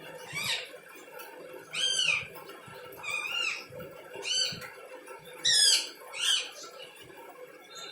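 Pet parrot calling in six short, high, arching calls a second or so apart.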